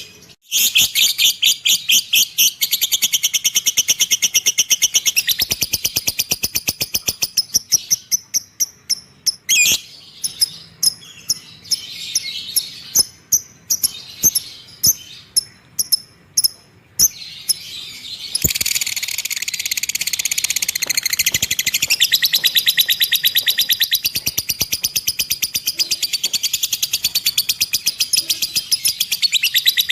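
Cage bird singing in rapid, high-pitched chattering trills of fast repeated notes. The trills break into short phrases with gaps in the middle, then run on unbroken from a little past the halfway point.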